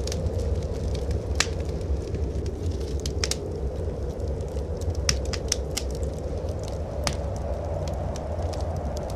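Wood fire crackling in a fireplace, with scattered sharp pops in small clusters, over a steady low rush of blizzard wind.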